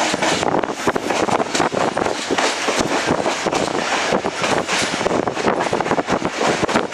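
Passenger train running at speed, heard from on board an ICF coach: the wheels keep up a fast, irregular clatter on the rails over a steady rush of wind.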